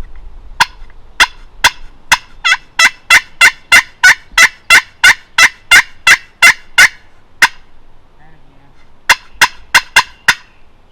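Hen turkey yelps from a hunter's turkey call, loud and evenly spaced at about three a second in a long run, then after a pause a shorter run of five yelps, calling to gobblers.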